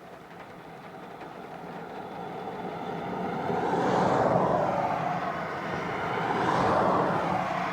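Two vehicles passing close by one after the other on a wet road. The tyre and engine noise of each swells and fades, with a sliding change in pitch as it goes by: the first is loudest about four seconds in, the second near seven seconds.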